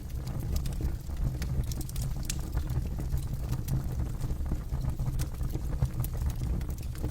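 Campfire burning with a steady low rumble and frequent sharp crackles and pops from the burning wood.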